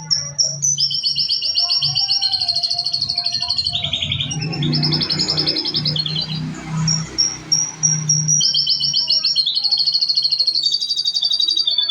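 Domestic canary singing nonstop, a trained song bird with lovebird and cililin phrases in its repertoire: fast, unbroken rolling trills that shift from one phrase to the next, with a rougher, noisier stretch in the middle.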